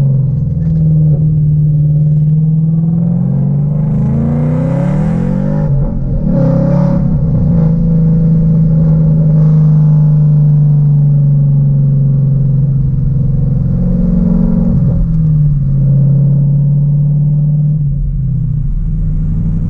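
Ford Mustang GT's 5.0 V8 running through new Flowmaster mufflers and a catless X-pipe: a loud, steady exhaust drone, with the revs climbing and falling between about three and seven seconds in and again around fifteen seconds.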